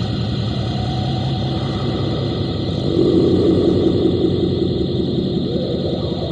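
Experimental noise machine putting out a dense, engine-like rumbling drone with faint steady tones. About three seconds in, it swells louder with a strong mid-pitched band, then eases back near the end.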